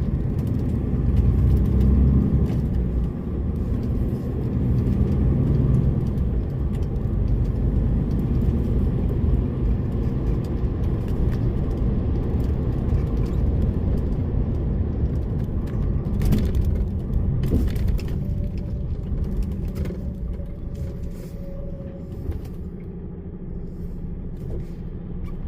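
DAF lorry's diesel engine and road noise while driving, a steady low rumble. It is louder in the first few seconds and eases off near the end, with a couple of knocks about 16 seconds in.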